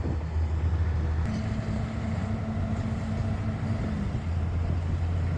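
Diesel engine of heavy drilling-site machinery running steadily with a low hum. About a second in the sound changes abruptly and a higher hum joins for a few seconds before it settles back.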